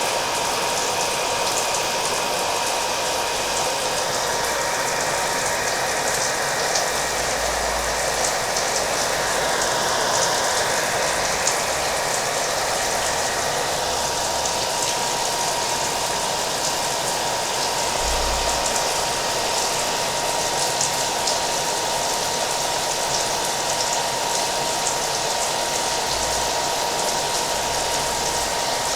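Hair dryer running steadily, its rushing air carrying a constant high hum, mixed with the sound of rain falling.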